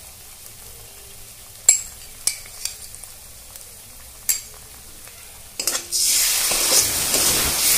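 Poppy-seed paste being worked into hot oil and spiced onion masala with a flat spatula in a metal pan. At first there are only a few light clicks against the pan; then, about six seconds in, a loud frying sizzle starts as the stirring begins.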